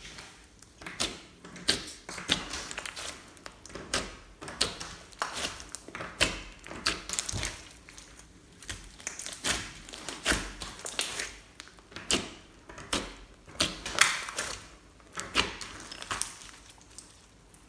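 Slime being squeezed and stretched by hand, giving irregular sticky clicks and squelches one or two times a second.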